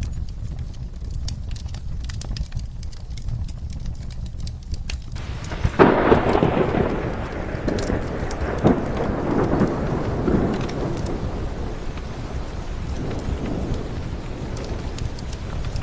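Steady rain with the sharp crackle of a wood fire. About six seconds in, a thunderclap breaks and rolls on with several swells, slowly fading.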